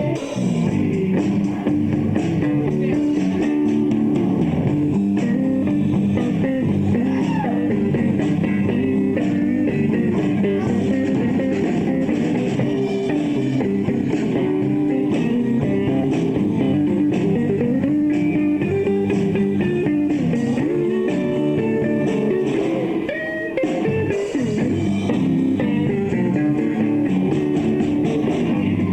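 Live bar band playing an instrumental passage, guitars to the fore over bass and drums, in a blues-rock vein. The playing runs on steadily, with a short dip in level about 23 seconds in.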